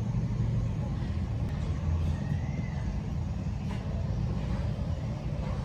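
Steady low rumble of background noise, of the kind heard from road traffic.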